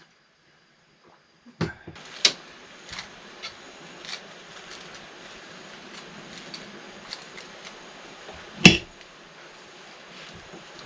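Chops cooking over a wood campfire: a steady sizzling hiss with scattered sharp crackling pops. The sound starts about a second and a half in, and the loudest pop comes near the end.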